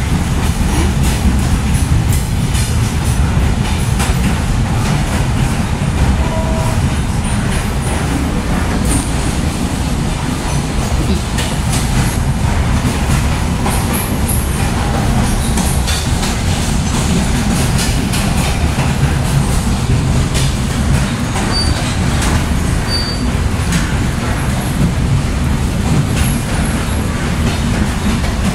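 Passenger train running along the track, heard from inside the carriage beside an open window: a steady loud rumble of wheels on rails with scattered clicks and rattles, and a few brief high squeaks.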